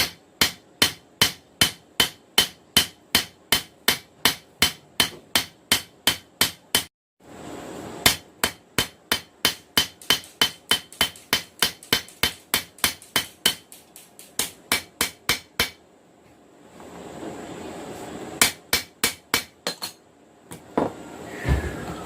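Hammer blows on a knife blank on an anvil, struck at about three a second in two long runs with a short break between, then a pause and a final short burst of blows. The smith is forging the skinner blade to an even thickness.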